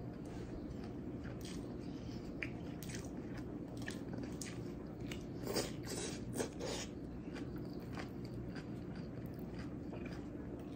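A man biting into and chewing a large beef burger with pickles and coleslaw: a run of short, wet mouth clicks, loudest in a cluster a little past halfway as he takes a big bite. A steady low hum runs underneath.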